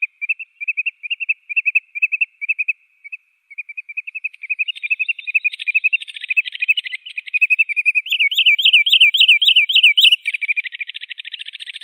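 Wood sandpiper calling: a run of short, high notes about three a second that quickens into a trill, then a loud series of rolling, rising-and-falling notes near the end, followed by a fast buzzy trill.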